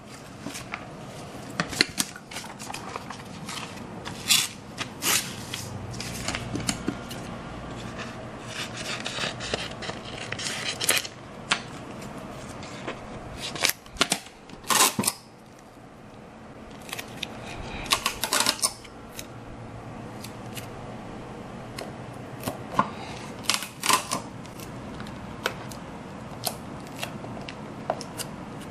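Hand-crafting handling noise while assembling a model ship: irregular clicks, taps and short rustling, scraping bursts, with a few louder bursts about 14–15 s and 18 s in.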